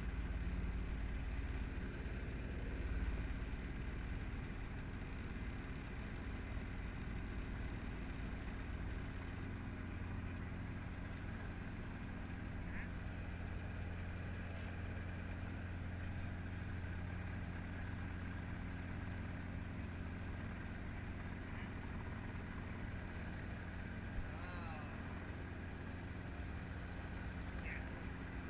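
Helicopter engine and rotor running steadily, a constant low hum.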